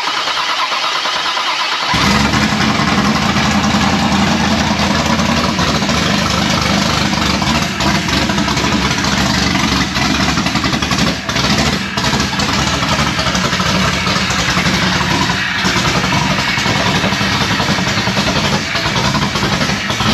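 Freshly built 363 cubic-inch stroker small-block Ford V8 on its first startup: it cranks briefly, catches about two seconds in and keeps running, loud, with no exhaust system fitted yet.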